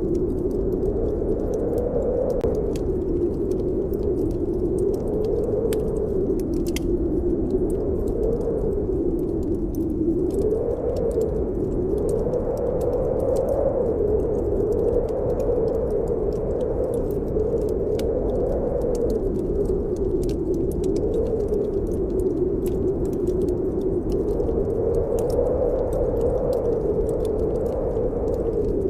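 Snowstorm wind howling, a low moan that slowly wavers up and down in pitch, with the faint scattered crackle of a wood fire in a fireplace.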